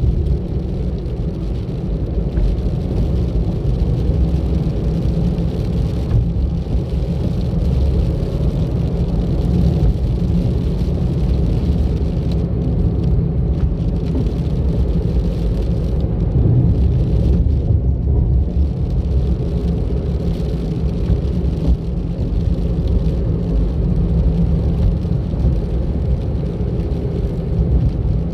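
Car driving steadily along a road: a continuous low rumble of engine and tyre noise with no distinct events.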